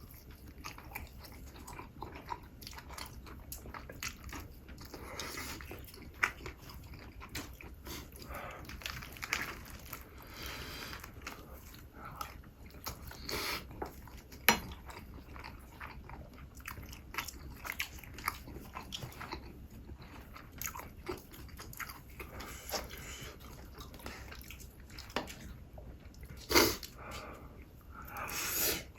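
Close-miked eating: biting, chewing and crunching food, with short crunchy clicks throughout and a few louder crunches, one about halfway and two near the end.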